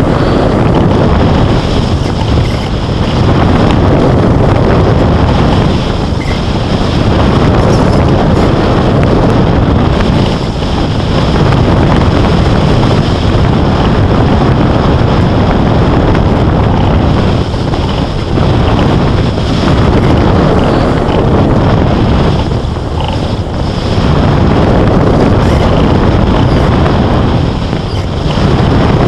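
Wind rushing over the microphone in hang-glider flight: a loud, steady rush that eases briefly every few seconds.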